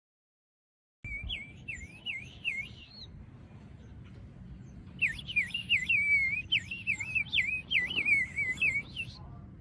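Water-filled bird whistle blown in warbling trills, its pitch wobbling up and down several times a second. A short burst comes about a second in, then a longer, louder one from about halfway in until near the end.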